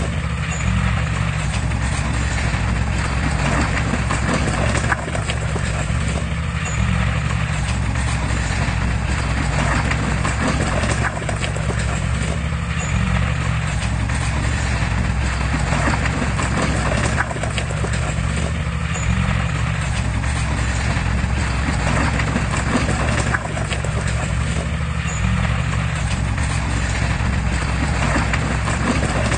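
Heavy diesel engine of earthmoving machinery running steadily under load, with a recurring clatter every few seconds.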